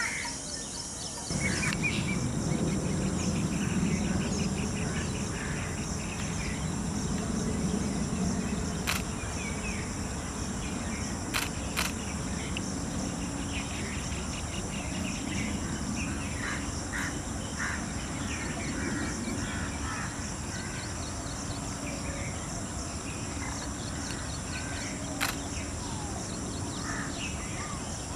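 Outdoor bird ambience: scattered small bird chirps over a steady low rumble and a steady high-pitched whine, with a few sharp clicks. The rumble gets louder about a second and a half in.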